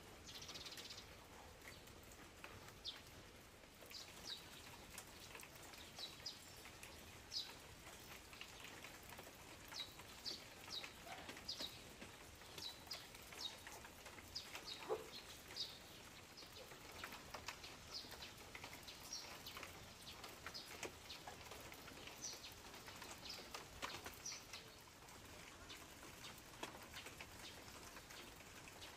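Light rain: a faint steady patter with scattered drops landing at irregular intervals, several a second.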